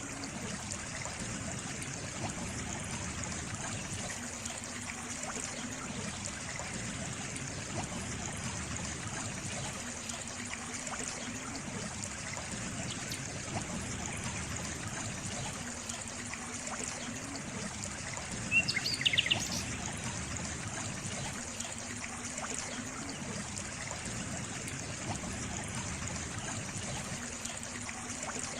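Water trickling and running in a small stream, a steady rushing with a low burble that comes back about every six seconds. A brief cluster of bird chirps stands out about two-thirds of the way in.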